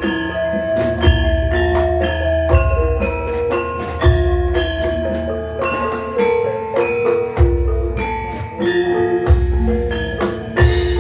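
Javanese gamelan ensemble playing a gendhing: bronze metallophones ring out a melody in a steady beat, with sharp drum strokes and deep gong-like strokes booming every couple of seconds.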